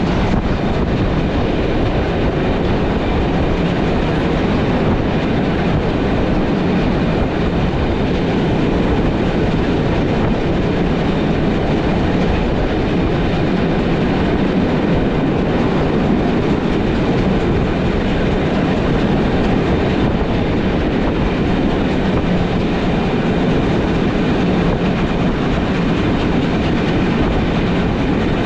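Steam-hauled passenger train of Umbauwagen coaches running steadily along the line: a continuous, even rumble of wheels on the rails.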